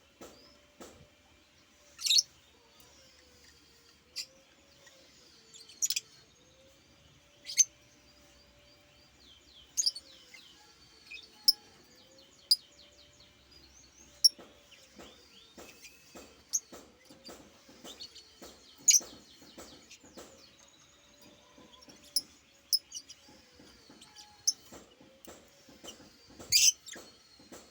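Pet bird chirping: sharp, high chirps at irregular intervals, some loud, over softer, steady twittering.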